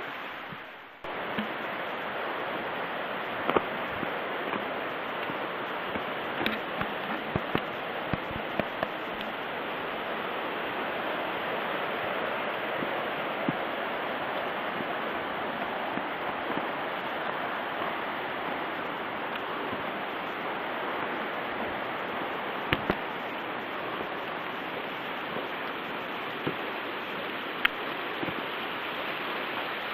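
Mountain stream rushing steadily, with scattered sharp clicks over the flow.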